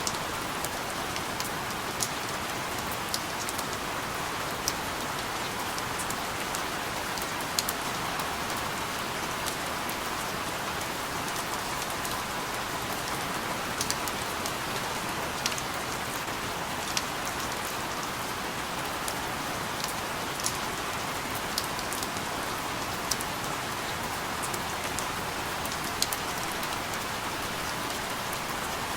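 Steady rain falling on a surface, a dense even hiss with scattered sharper drips and taps at irregular moments.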